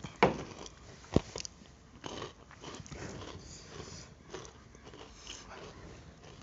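Crunchy Current Kurkure snack pieces being bitten and chewed: two sharp cracks about a second apart near the start, then softer, irregular crunching.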